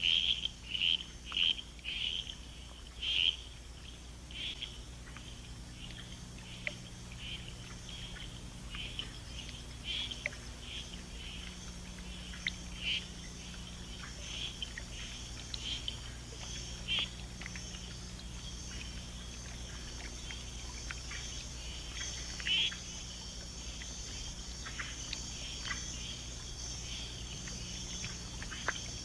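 Frogs calling at a breeding pool: short chirps, several a second at first, then more scattered, over a steady high insect drone.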